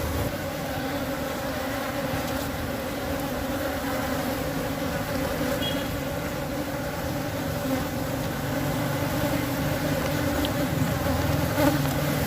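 Many Asian honey bees (Apis cerana) buzzing in a steady, dense hum around a hive being worked for division.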